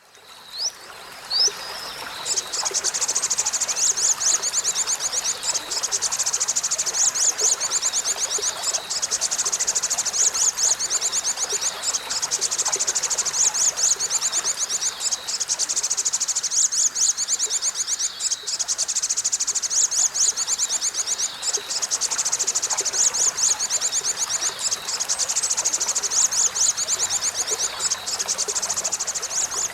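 Olive-backed sunbird singing a long, high-pitched rapid trill, broken by brief pauses every few seconds, after a few short rising chirps at the start.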